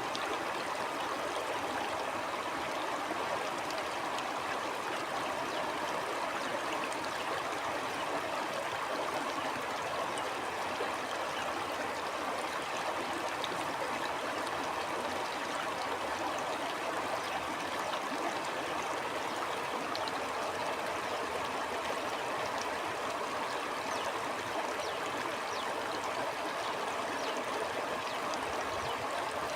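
A stream of water flowing over rocks in a steady, even rush with fine trickling and gurgling detail.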